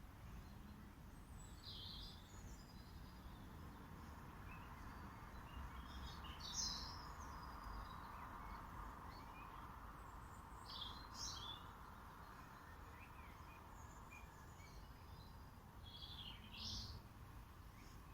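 Songbirds chirping, with short scattered calls in a few clusters, over a faint steady background hum.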